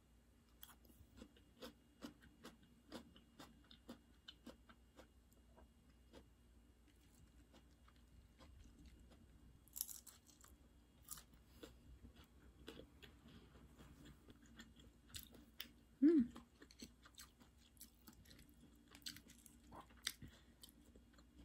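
Close-up chewing of crisp raw salad (lettuce and bell pepper): quiet sharp crunches, about two a second at first, with one brief louder sound about three quarters of the way through.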